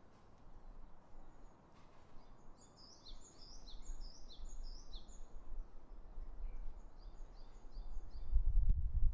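A small bird singing two phrases of short, repeated, high, downward-sliding notes, about three a second, over steady outdoor background noise. A louder low rumble rises near the end.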